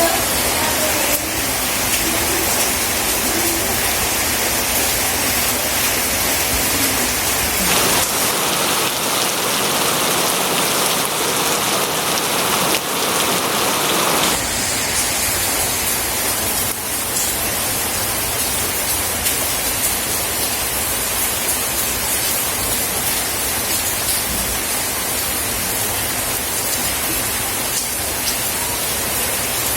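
Steady rain falling: an even hiss spread from low to very high pitches. The low rumble underneath drops out for about six seconds partway through, then returns.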